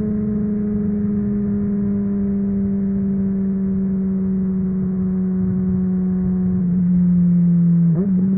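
Honda CBR600RR inline-four through a MIVV aftermarket exhaust, running at steady high revs under way, its pitch slowly sinking. It gets louder near the end, and about eight seconds in the pitch briefly dips and recovers, like a quick gear change.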